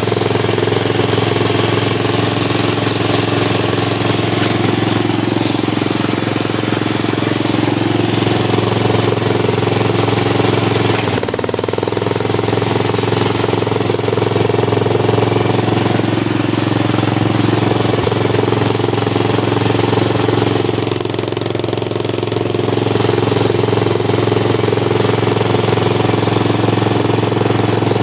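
Lawn tractor engine with an aftermarket exhaust running steadily, its note changing briefly about eleven seconds in and dipping slightly around twenty-one seconds.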